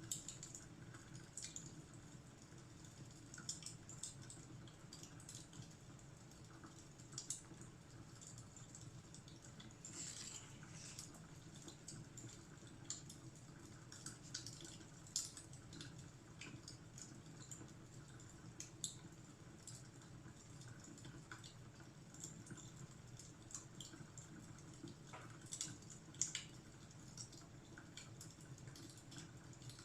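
Faint fireplace crackling: irregular small pops and crackles over a steady low rumble, with a few sharper snaps scattered through.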